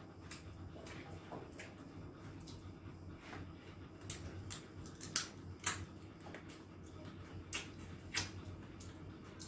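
Close-up mukbang eating sounds: irregular wet clicks and smacks of chewing, a few of them sharper, about five and five and a half seconds in. A low steady hum runs underneath.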